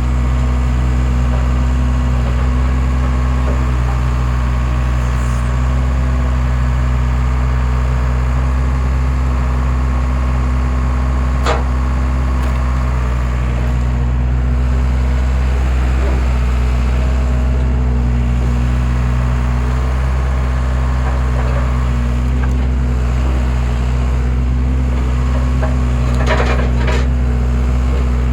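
Skid steer engine running steadily under a homemade log splitter, with a single sharp crack about a third of the way in and a short run of cracking near the end as wood splits.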